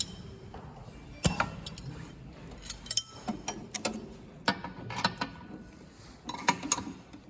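Irregular metallic clicks and clinks from a semi-automatic USB cable soldering machine while its inner-wire stripping and cutting is adjusted.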